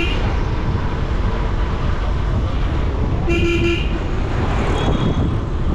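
Steady rumble of city road traffic, with a vehicle horn giving a quick burst of short toots about three seconds in.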